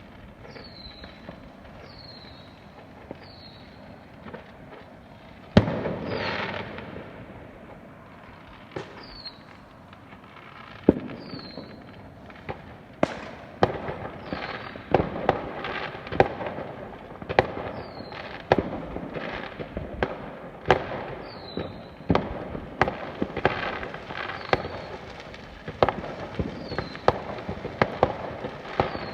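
Fireworks going off: a first loud bang about five seconds in, then scattered bangs that turn into a dense run of bangs and crackles through the second half. A short falling chirp repeats about once a second under them.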